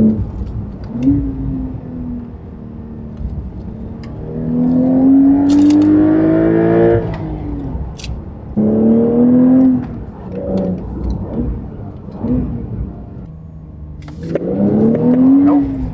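Porsche 992 Carrera T's 3.0-litre twin-turbo flat-six running through a valved titanium aftermarket exhaust, pulling hard in gear: the pitch climbs in several runs and drops away at each shift, with short rev blips in between.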